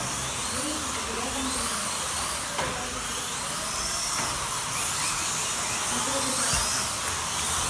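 Slot cars' small electric motors whining as they lap the track, the pitch rising and falling as they speed up and slow for the corners.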